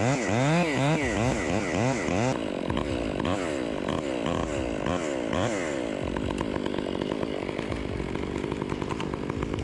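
Chainsaw engine revved up and down in quick pulses, about two a second. Near two seconds in the sound changes abruptly and the revving goes on more softly, settling after about six seconds into a steadier run.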